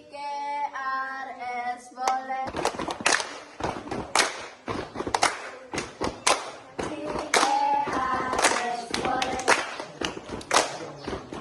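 A group of children's voices sings a short phrase, then claps hands in a steady rhythm of about two claps a second. A second sung phrase comes over the clapping near the end, in the manner of a camp cheer.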